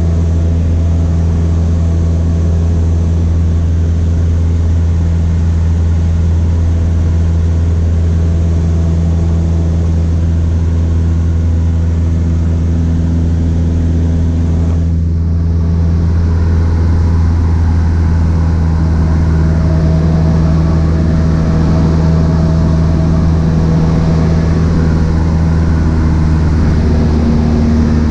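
Cessna 152's four-cylinder Lycoming engine and propeller running in a steady drone, getting a little louder about halfway through.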